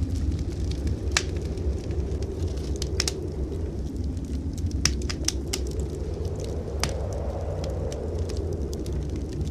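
Wood fire crackling in a fireplace, with irregular sharp pops and snaps, over a steady low rumble of blizzard wind.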